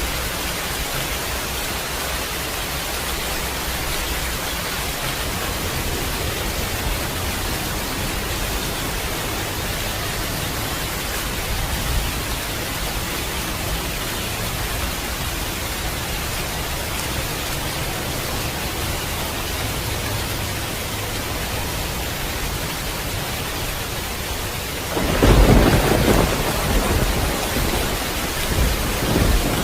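Heavy rain falling steadily, with low thunder rumbling in the background. Near the end a loud clap of thunder breaks and rolls on.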